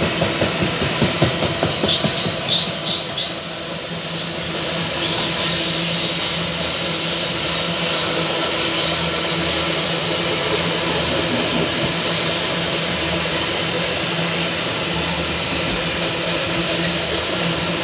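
Loaded ore wagons of a freight train rolling past on the rails: a steady rumble and hiss of steel wheels on track. A quick run of sharp clacks comes about two to three seconds in.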